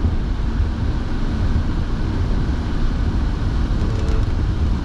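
Steady road and engine rumble inside a moving car's cabin, with the heater fan blowing.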